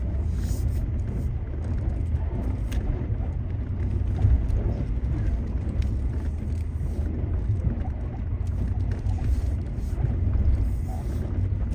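Off-road vehicle crawling over a rough, rutted dirt trail: a steady low rumble of engine and tyres with scattered knocks and rattles.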